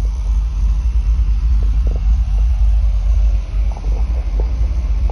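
Steady low rumble of a vehicle, heard from inside the 1985 Chevy van.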